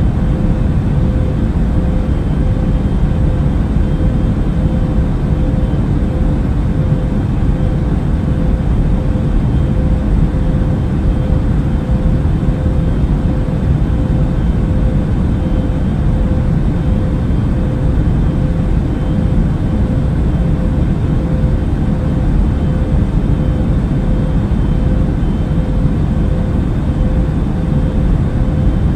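Airplane in flight: a steady low rumble of engine and air noise with a constant hum.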